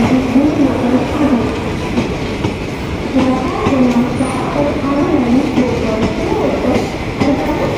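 Indian Railways passenger coaches of a departing express rolling past, with steady wheel-on-rail rumble and scattered clicks. A low, wavering tone comes and goes above the rumble.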